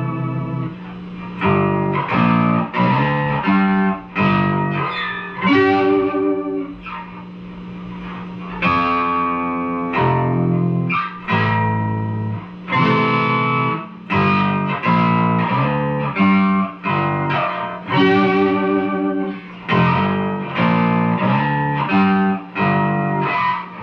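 Guitar playing a chord groove, chords struck in a choppy rhythm with some left ringing between changes.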